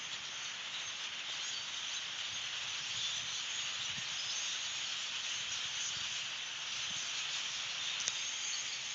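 A very large flock of birds calling all at once, blending into a dense, steady, hiss-like din.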